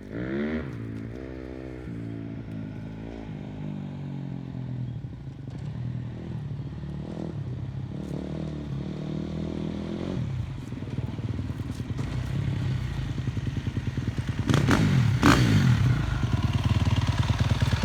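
Dirt bike engine running and being revved: it climbs in pitch right at the start, runs on unevenly, then revs sharply up and down twice about fourteen to fifteen seconds in, loudest there, before settling into a fast, even throb.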